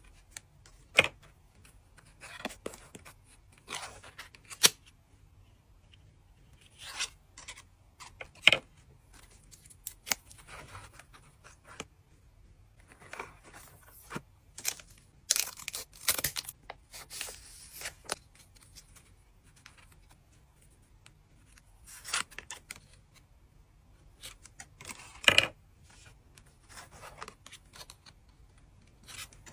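My Little Pony trading card packs being torn open and the cards handled. Their foil wrappers tear and crinkle in short bursts, and the card stock gives sharp snaps and clicks, at irregular intervals.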